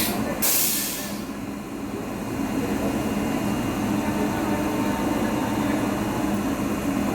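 A train running at the station with a steady rumble, and a short burst of hiss about half a second in.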